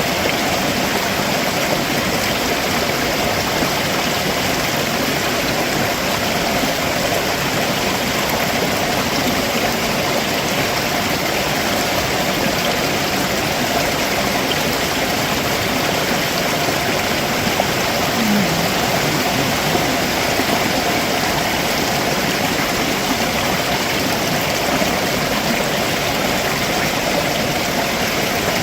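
A rocky stream's water rushing and splashing steadily over the rocks below a waterfall.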